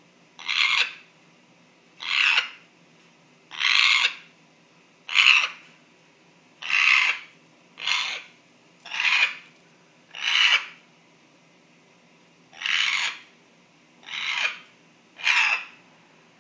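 African grey parrot making a strange repeated noise: a short, breathy rasp without a clear pitch, about half a second long, repeated eleven times at roughly one-and-a-half-second intervals, with a slightly longer pause a little after the middle.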